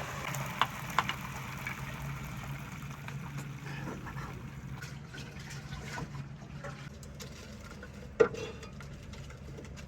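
Water running and splashing in a kitchen over a steady low hum, with a couple of sharp clicks about a second in and a louder knock near the end.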